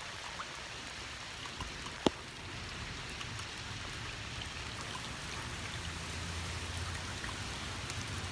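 Heavy rain falling steadily, a dense even patter of drops, with one sharp tap about two seconds in.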